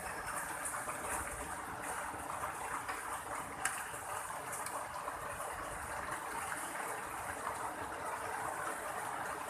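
Heavy rain falling steadily, with one sharp click about three and a half seconds in.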